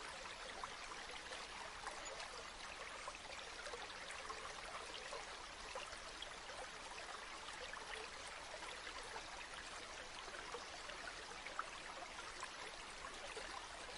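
A gently flowing river babbling steadily over its bed, with many small splashes and trickles.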